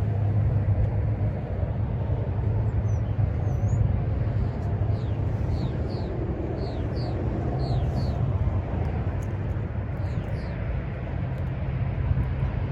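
Car engine idling steadily, with a deep low hum. Birds chirp several times partway through.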